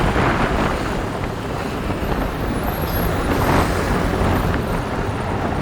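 Steady noise of a motorbike on the move: engine and road noise with a constant low rumble.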